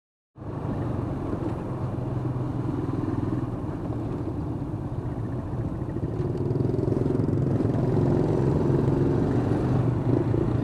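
Steady engine drone of a vehicle in traffic, starting suddenly, growing a little louder about halfway through, and cutting off suddenly near the end.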